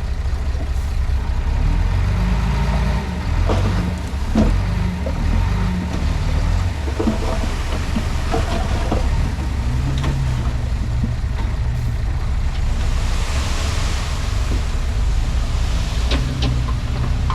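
Komatsu D31P crawler bulldozer's diesel engine running steadily with a pulsing low rumble, with scattered metallic clicks and knocks about four seconds in and again near the end, and a brief rise in hiss in between.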